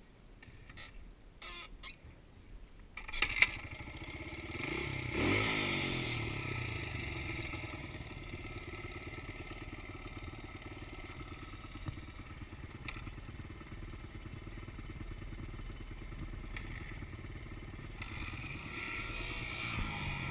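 A dirt bike's engine starts about three seconds in, revs up and back down once, then idles steadily, picking up a little near the end.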